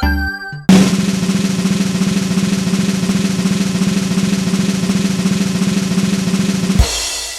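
Snare drum roll sound effect: a fast, even roll for about six seconds. It ends in a single hit that rings away, the kind of suspense roll played before a result is revealed.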